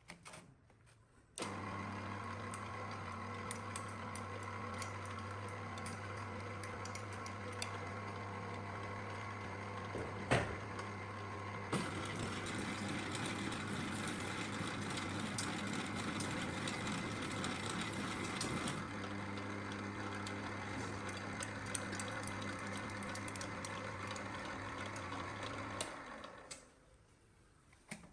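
Small electric mixer motor switched on and running steadily with a low hum. It runs louder and busier for several seconds in the middle, then drops back and winds down when switched off near the end. There is one sharp click near the middle.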